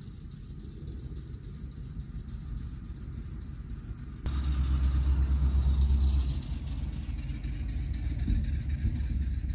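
A vehicle engine running steadily while driving, a low rumble with faint regular ticking over it. About four seconds in the sound changes abruptly to a louder, deeper engine rumble.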